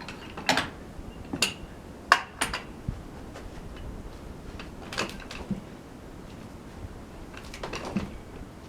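Sharp metallic clanks and knocks from a log being worked onto a sawmill with a steel cant hook: about six irregular strikes, the loudest about two seconds in.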